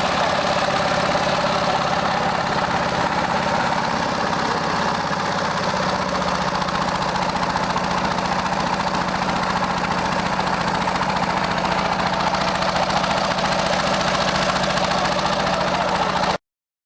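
A boat's engine running steadily, a loud even hum with a few held tones in it. It cuts off suddenly near the end.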